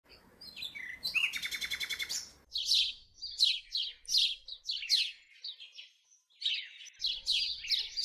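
Small songbirds chirping: a fast, rattling trill of repeated notes for about a second near the start, then a steady run of short, high chirps that sweep downward.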